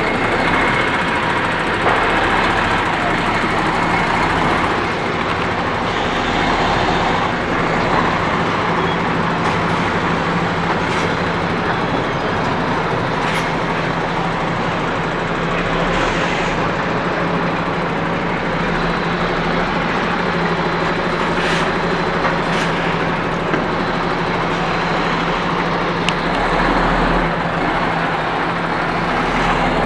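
A lorry's diesel engine running steadily with a constant low hum.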